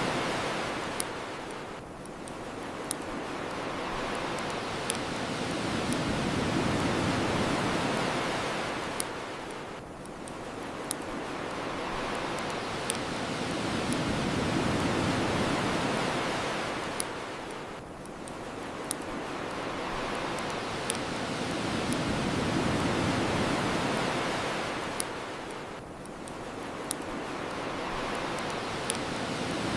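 Ocean waves washing onto a shore, swelling and falling back about every eight seconds. Sharp crackles and pops from a wood bonfire sound every second or two over the surf.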